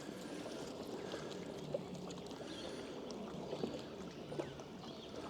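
Quiet river water lapping and trickling, with a few faint small clicks scattered through.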